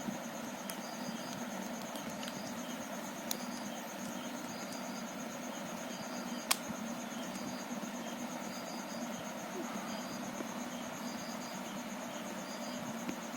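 Steady high insect trill, like crickets, with short chirps in twos and threes over it, broken by a few sharp clicks, the loudest about halfway through.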